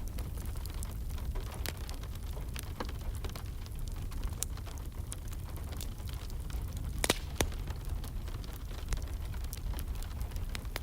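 Wood fire crackling with scattered sharp pops, one louder pop about two-thirds of the way through, over a steady hiss of rain and a low rumble.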